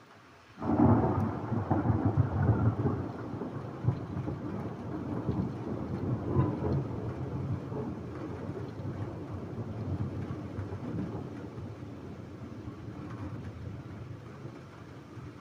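A thunderclap breaks suddenly about half a second in and rolls on as a long rumble that slowly fades away.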